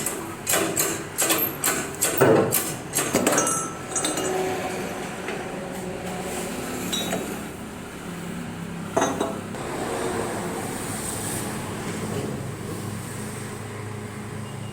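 Hammer blows and metallic clinks on steel bearing parts while a car's rear wheel bearing is being replaced: about ten quick, uneven strikes in the first four seconds, then a single knock about nine seconds in, over a steady low hum.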